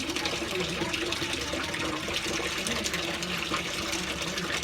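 Water running steadily from a tap into a bathtub, filling it.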